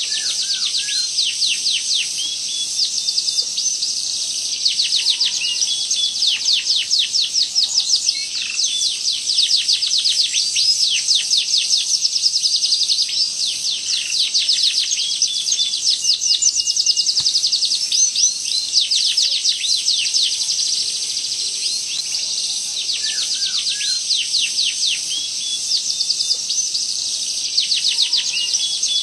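Domestic canary singing continuously in long, fast rolls of rapidly repeated high notes, with a few lower curling notes mixed in.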